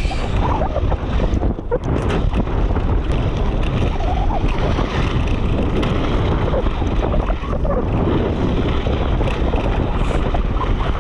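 Wind buffeting a helmet-mounted action camera's microphone as a mountain bike rides fast downhill, a steady heavy rumble with a few sharp knocks from the bike on the rough trail.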